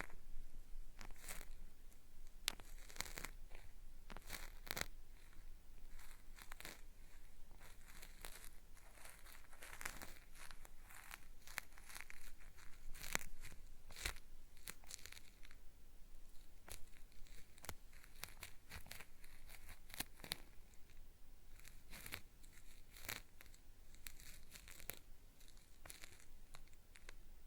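Cotton swab rubbed and scraped over the ear of a binaural microphone, giving an irregular run of gritty, scratchy crackles with a peeling feel.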